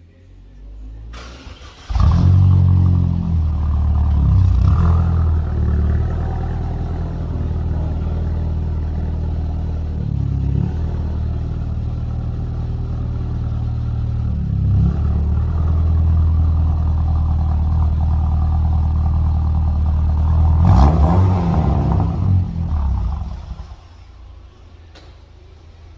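Car engine, a 2004 Saab 9-3 Aero's turbocharged four-cylinder, started about two seconds in and run at a steady idle with a few short revs, then switched off a couple of seconds before the end.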